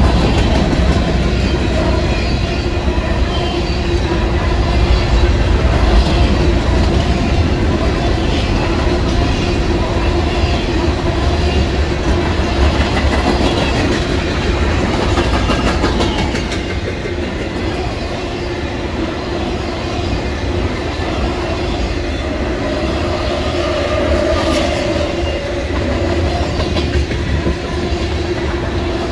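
Mixed freight train's cars rolling past at close range: steel wheels clacking over the rail joints over a steady, loud rumble.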